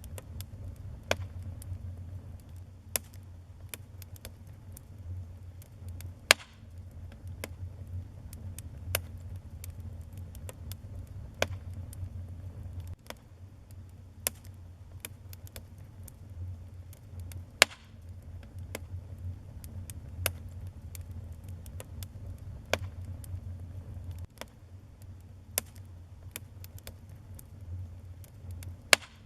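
Wood fire crackling in a fireplace: irregular sharp pops and snaps over a low steady rumble, with a few louder pops about six seconds in, just past the middle, and near the end.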